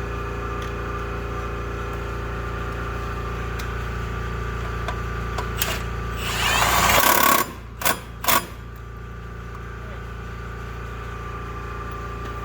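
Impact wrench driving the primary clutch bolt tight: one loud run of about a second and a half, rising in pitch, then two short hits about half a second apart.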